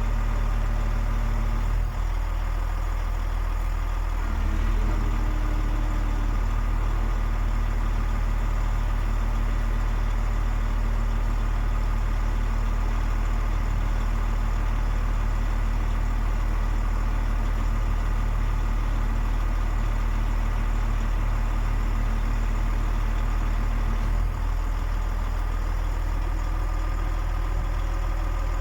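DAF XF 105.460 truck's six-cylinder diesel engine idling steadily.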